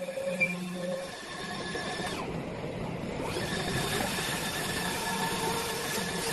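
Wood CNC turning lathe running, a steady machine noise with a whine that falls in pitch about two seconds in and rises again about a second later.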